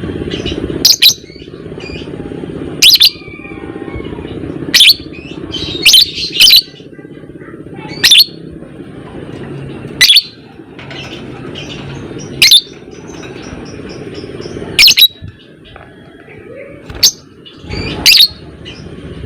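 Lovebird giving short, loud, shrill calls about every two seconds, over a steady low background hum.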